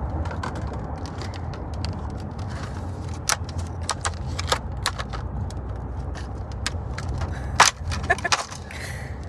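Steady low rumble of a car's cabin, with scattered clicks and crinkles of plastic food packaging being opened and handled, and one sharper click about seven and a half seconds in.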